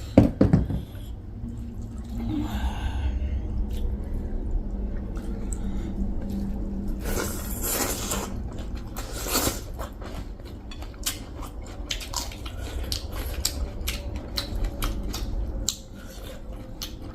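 Eating sounds: chewing and small clicks of dishes and food being handled, with two brief louder swishing noises partway through.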